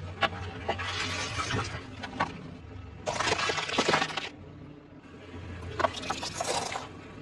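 Close-up crunching of crispy fried food being bitten and chewed, in three bouts of loud crackling with sharp cracks.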